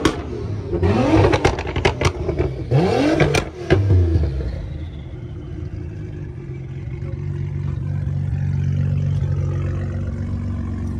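Performance car engine revved hard several times, each rev rising quickly, with sharp cracks from the exhaust. About four seconds in it drops to a steady idle.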